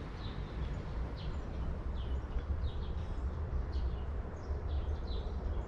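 Small birds chirping, short falling chirps about twice a second, over a steady low rumble.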